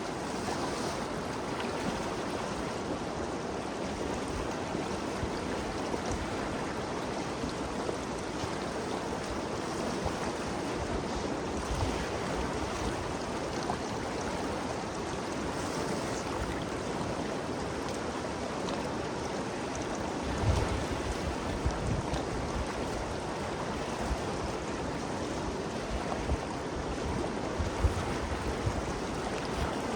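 Ganges River flowing, a steady rushing of moving water, broken by a few short low thumps in the second half.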